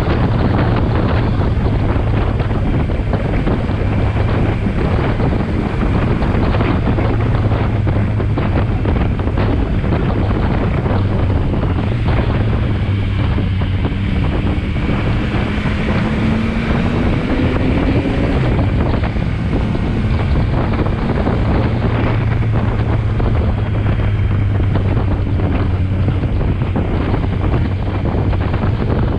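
Heavy wind rushing over the microphone of a riding motorcycle, with the engine's steady low drone underneath. Midway through, the engine note climbs and then falls away.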